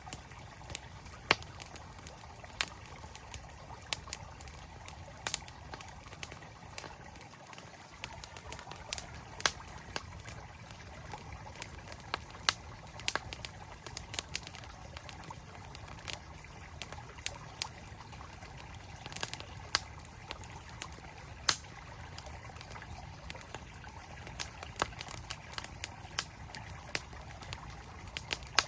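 Campfire crackling with sharp, irregular pops, several a second, over the steady rush of a flowing mountain stream.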